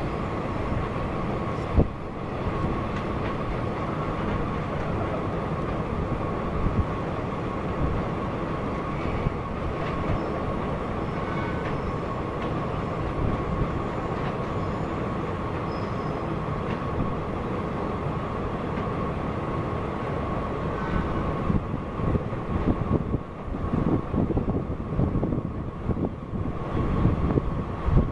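Freight train wagons rolling across a steel truss railway bridge: a steady rumble with a constant tone running through it. Gusts of wind hit the microphone near the end.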